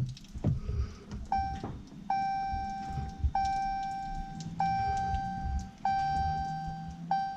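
Dodge Challenger's dashboard warning chime ringing over and over, one tone about every 1.2 seconds, switching to quicker chimes right at the end. The engine does not crank: the car fails to start.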